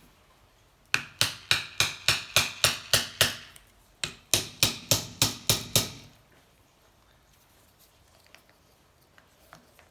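Hand hammer striking in two quick runs of blows, about four a second, with a slight metallic ring, working the seized cylinder off a 1984 Honda C70 engine whose piston is stuck in the bore.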